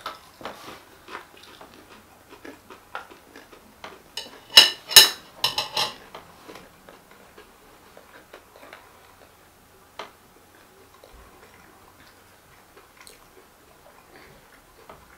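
Two people chewing crispy breadcrumb-coated chicken chunks: many small crunches and mouth clicks, with a cluster of louder sharp clicks about four to six seconds in, thinning to sparse quiet chewing.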